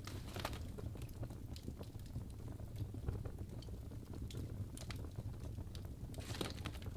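Fireplace fire crackling: a steady low rumble with irregular sharp pops and snaps, a short burst of crackle near the end.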